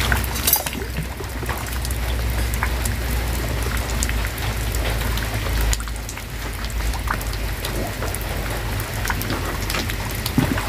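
Heavy rain falling steadily on a concrete yard and plastic buckets, with water splashing and pouring as plastic cups and dishes are scrubbed and rinsed by hand. Many small clicks and taps run through it.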